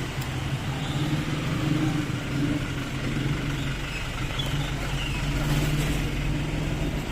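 A truck's engine running steadily at low revs, a continuous low hum that swells and eases slightly.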